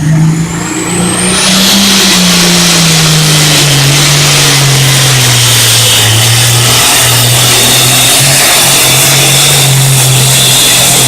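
Pulling tractor's turbocharged engine at full throttle under load from the weight-transfer sled: a high turbo whine climbs in the first second and a half and then holds, while the engine note rises briefly and then sags and holds lower as the sled loads it.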